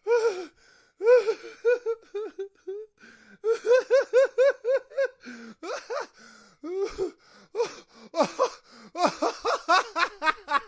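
A man laughing in bursts of rapid, pitched "ha-ha" pulses, about four a second, with short breaths and pauses between the bursts.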